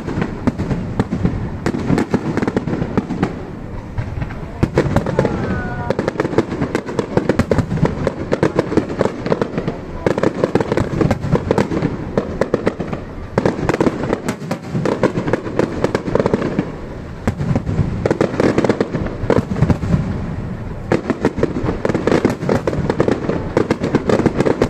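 Fireworks display: many aerial shells going off in quick succession, a dense stream of bangs and crackles.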